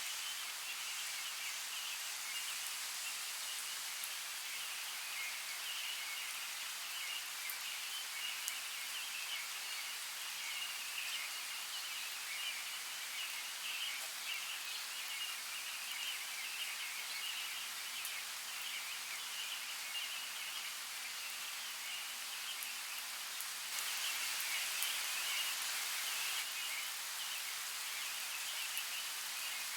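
Steady forest ambience of a creek's running water, with a flickering higher layer and a few faint ticks, rising a little about three-quarters of the way through.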